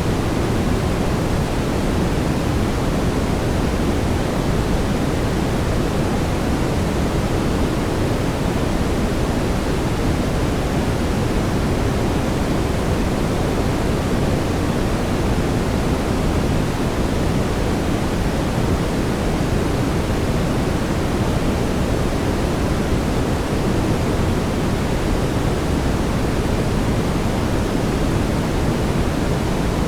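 Steady synthetic brown noise: an even, deep rushing hiss weighted toward the low end, with no changes.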